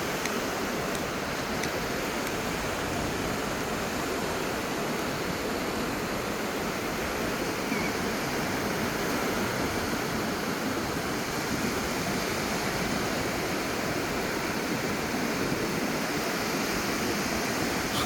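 Ocean surf: a steady rush of waves washing onto the beach.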